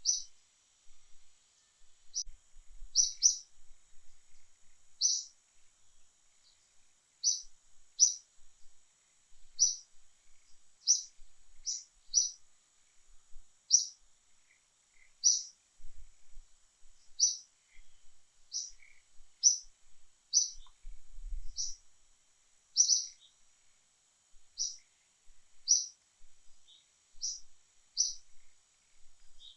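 A bird chirping over and over, short sharp high notes every second or two, some in quick pairs, over a steady high hiss.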